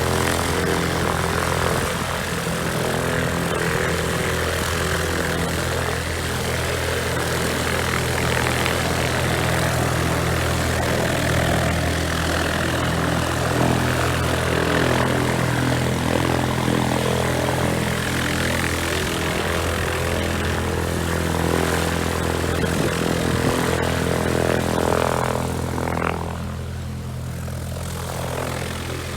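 Light propeller aircraft engine running steadily, typical of a glider tug; near the end the sound eases and grows quieter.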